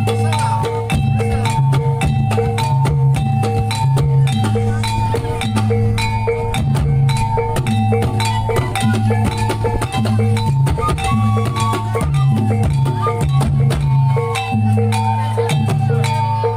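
Javanese reog ensemble music: a short metallic two-note figure repeats over and over above a steady low held tone, with dense drum strokes throughout.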